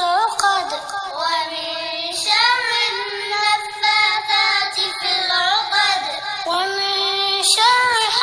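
A high voice chanting Quranic recitation in a slow melodic style, with long held notes and ornamented pitch glides.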